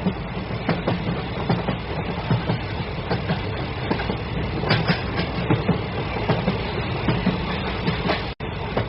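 A train running past at speed, its wheels clattering over the rail joints in a steady stream of sharp clicks. A split-second dropout comes near the end.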